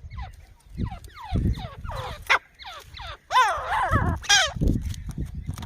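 Grey francolin calling: a quick series of harsh, repeated notes that gets loudest about halfway through, when several strong calls come close together. A low rumble runs underneath.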